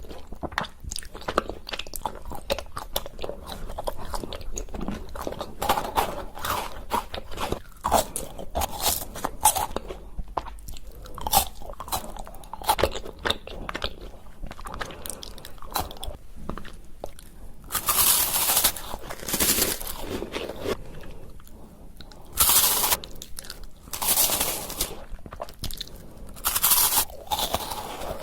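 Close-miked chewing and crunching of chocolate candy: a steady run of small crisp crunches, with several louder, longer crunching bursts in the second half.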